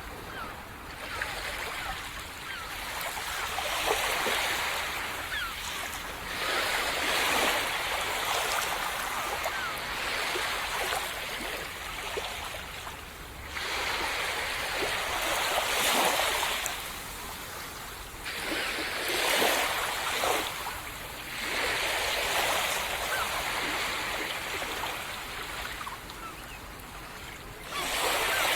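Small waves breaking on a sandy beach one after another, each swell of surf rising and hissing away, with the fizz of foam and water washing over sand.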